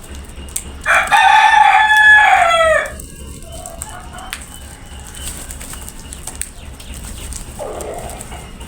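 A rooster crows once, a loud call of about two seconds that drops in pitch at the end. A shorter, fainter call follows near the end.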